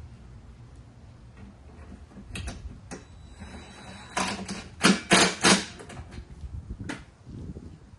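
Scattered knocks and clanks of tools and metal parts being handled, with four louder strikes in quick succession about four to five and a half seconds in.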